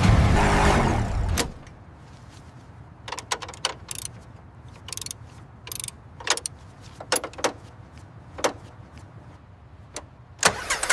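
A loud, even noise stops sharply about a second and a half in. After it come scattered short mechanical clicks and clunks at irregular intervals, like parts of a mechanism or machinery being worked.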